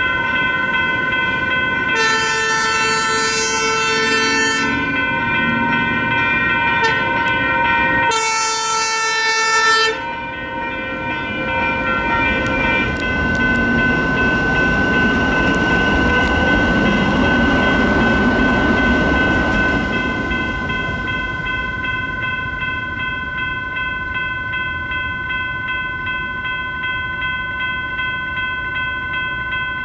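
US&S E-Bell electronic crossing bell ringing steadily at a railroad crossing. A light rail train sounds its horn twice, a few seconds apart. The train then rumbles through the crossing, its noise swelling and fading away.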